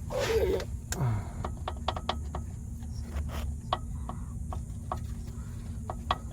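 Irregular light clicks and taps of metal parts and hand tools being handled on an engine's connecting-rod bearings and crankshaft, over a steady low hum.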